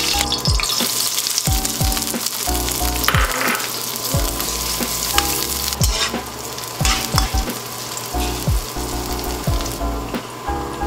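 Sliced onions sizzling in hot oil in a wok as they are stirred with a spatula, with a few sharp clicks of the spatula against the pan. Background music with a steady electronic beat plays under it.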